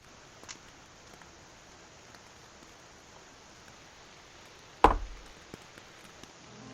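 Steady hiss of rain with a few faint drip ticks, and one sharp, loud knock with a low thud about five seconds in.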